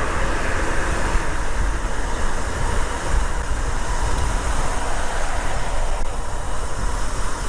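Steady wind rush and low rumble on the microphone of a camera riding along on a moving bicycle.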